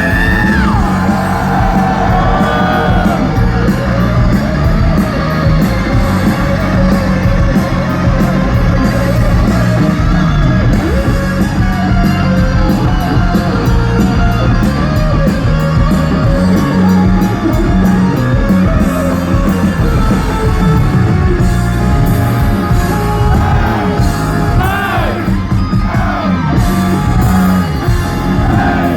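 Live rock band playing loudly: electric guitars, bass and drums with a singer's voice gliding and yelling over them.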